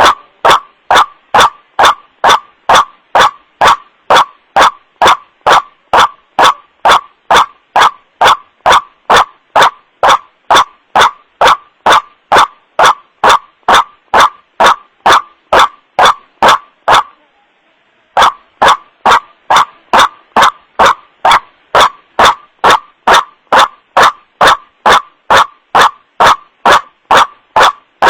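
Recorded call of a white-breasted waterhen, a short 'kru-ak' note repeated about twice a second in a steady loop, played back as a bird lure. It is very loud, peaking near full scale, and breaks off for about a second some seventeen seconds in before starting again.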